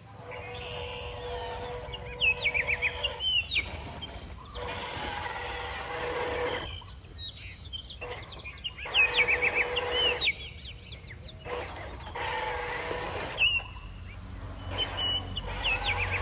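Small electric RC car motor whining steadily over a low rumble, with short runs of quick high chirps like birdsong. The sound drops out abruptly several times.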